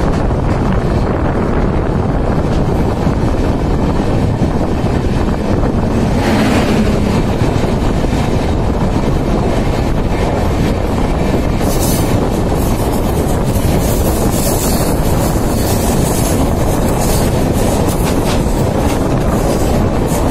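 Running noise of an Indian Railways AC express with LHB coaches, heard from an open coach door: a loud, steady rumble of wheels on rail. From about twelve seconds in, a rapid clatter of clicks joins it as another train runs close alongside on the curve.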